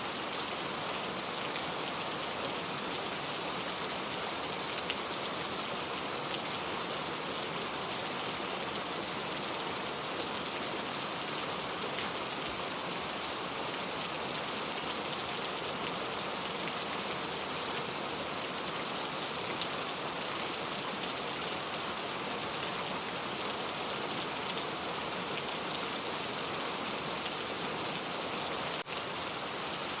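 Steady rain falling, an even hiss of many drops with no thunder, and a momentary dip in level near the end.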